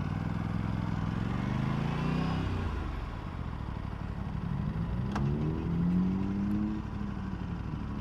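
A vehicle engine revving up twice, its pitch rising over a couple of seconds each time, with a single sharp tick about five seconds in.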